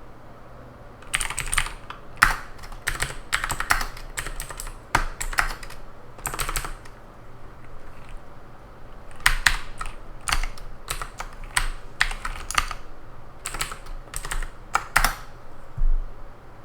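Typing on a computer keyboard: two runs of quick keystrokes with a pause of about two seconds between them, ending with a soft low thump.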